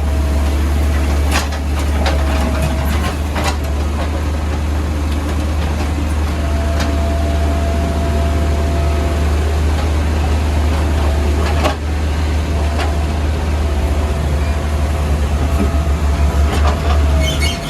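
Diesel engine of a CAT 462F backhoe loader running steadily under work, with a few sharp knocks, one about a second and a half in, one about three and a half seconds in and one near twelve seconds. A thin steady whine is heard for about three seconds in the middle, and near the end the engine note pulses rapidly.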